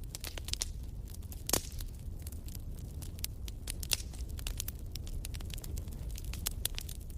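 Wood fire in a fireplace crackling: irregular sharp pops and snaps over a low steady rumble, with one louder pop about one and a half seconds in.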